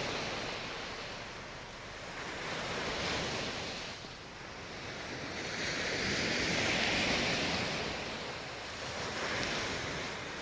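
Sea surf washing onto the shore in a steady rush, with one wave swelling loudest about seven seconds in.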